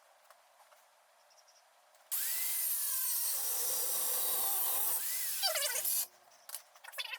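A power tool runs for about four seconds, starting abruptly about two seconds in and cutting off suddenly, with a whine that sweeps up and down in pitch over a loud hiss. A few light clicks and knocks follow near the end.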